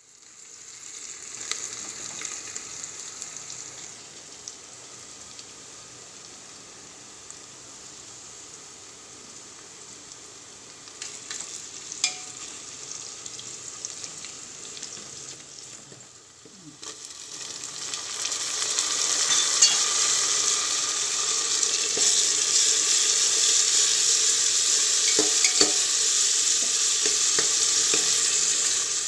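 Onions frying in oil in an aluminium pressure cooker make a steady sizzle, and a metal spatula stirs and clinks against the pot now and then. A little past halfway the sizzle dips briefly and then gets much louder.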